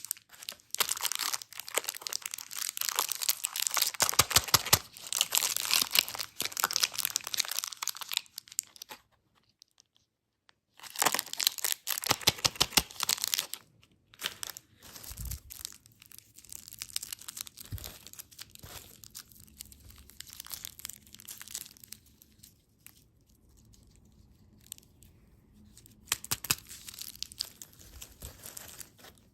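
Crinkly plastic candy wrappers being handled and torn open, a dense crackling in bursts with a short pause and a quieter, sparser stretch with a couple of soft thuds.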